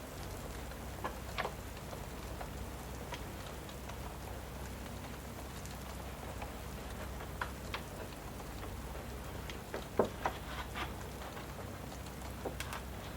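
Steady rain with a wood fire crackling, its sharp pops scattered irregularly, a quick cluster of them about ten seconds in.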